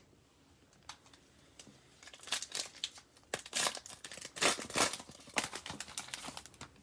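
A foil trading-card pack wrapper being torn open and crinkled in the hands. It starts with a couple of light clicks, and from about two seconds in the crackling runs dense and irregular.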